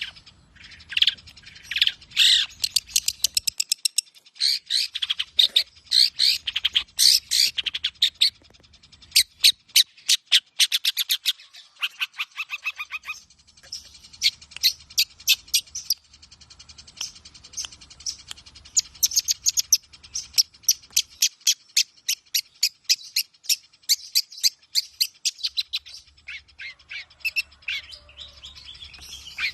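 Long-tailed shrike (cendet) singing continuously: rapid trains of sharp, high chattering notes, many to the second, with a couple of brief lulls.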